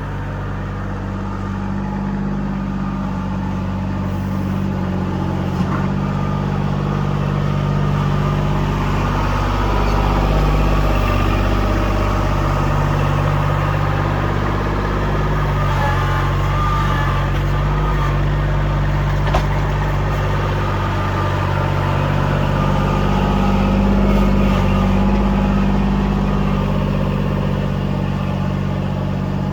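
Kubota L2501 compact tractor's three-cylinder diesel engine running steadily, its pitch and loudness shifting a little as the load changes, with two faint clicks.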